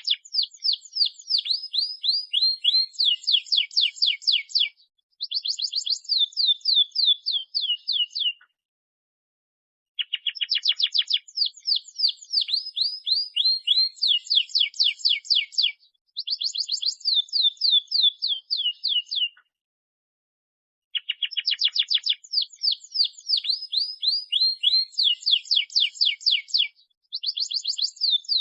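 Canary song: fast trills of rapidly repeated falling notes, in bouts of about eight seconds separated by short silences, the same phrase sequence repeating each bout. It is a looped canary recording of the kind played to lure and tutor other canaries into singing.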